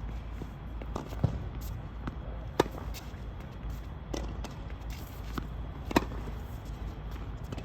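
Tennis rally: a tennis ball being struck by rackets and bouncing on the court, heard as a series of sharp pops, the loudest about one, two and a half, and six seconds in.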